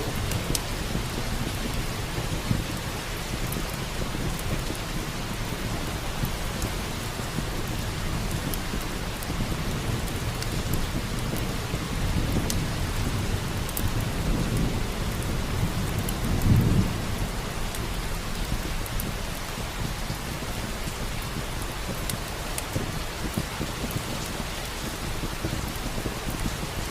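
Steady rain with a low rumble of thunder that swells over the middle, loudest a little past halfway, and scattered sharp crackles of a wood fire.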